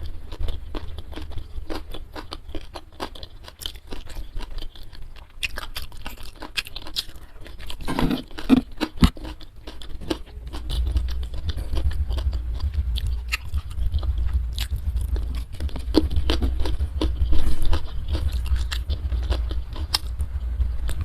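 Close-miked chewing and crunching of food in the mouth: many short, sharp crunches and wet mouth clicks, with a steady low rumble underneath.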